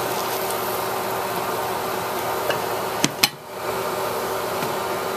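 Fish fillets frying in oil in a pan, a steady sizzling hiss. Two sharp clicks come about three seconds in, and the sizzle drops away briefly after them.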